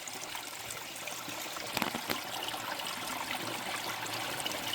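Shallow river water flowing and trickling steadily, with a couple of brief knocks or splashes about two seconds in.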